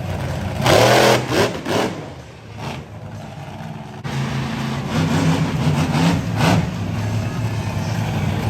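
Monster truck engine revving hard: a loud burst of revs about a second in that rises and falls away, a quieter stretch, then an abrupt change about four seconds in to the engine running and revving again.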